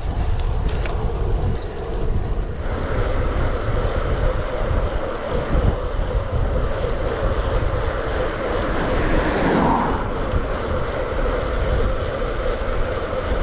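Wind rushing and buffeting over the microphone of an action camera on a moving road bike, with steady road noise underneath and a brief swell of noise about ten seconds in.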